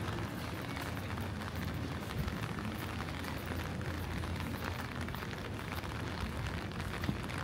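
Steady rain falling, a constant hiss full of many small drop ticks, over a steady low hum.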